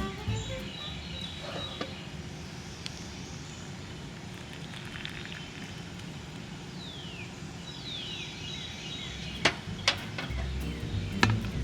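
Outdoor forest ambience with a steady hiss, a bird giving two short falling chirps about halfway through, and a few sharp clicks near the end.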